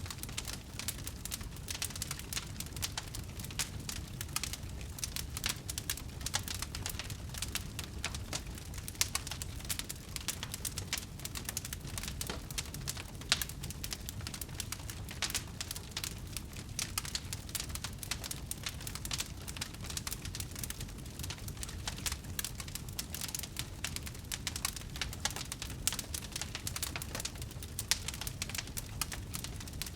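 Wood fire burning steadily, with a dense stream of small crackles and occasional louder pops from the burning wood over a low rumble of the flames.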